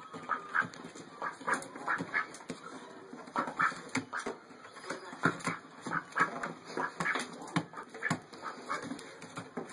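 White Pekin duck giving short quacks and tapping its bill against a mirror at its own reflection, in an irregular string of several sounds a second.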